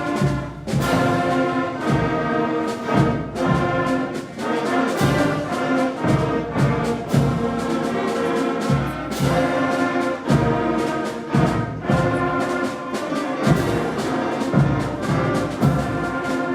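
School concert band playing, brass and woodwinds holding chords over regular drum strikes.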